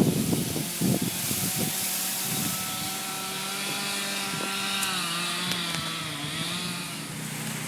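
A small engine running steadily, its pitch sagging a little about two-thirds of the way through, with a few sharp cracking knocks in the first second or two.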